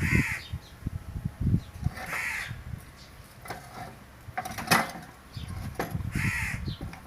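A crow cawing three times, at the start, about two seconds in and about six seconds in, with a couple of sharp knocks in between and low thumping underneath.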